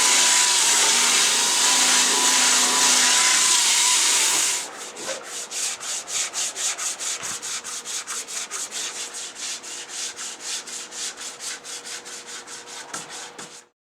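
A steady hiss for about four and a half seconds, then rhythmic back-and-forth rubbing strokes on a surface, about four or five a second, growing fainter until they stop just before the end.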